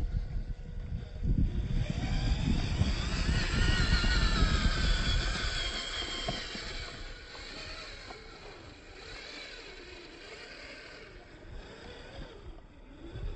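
Small DC gear motor of a model tractor whining, its pitch wavering up and down over a low rumble. It is loudest for the first several seconds, then quieter.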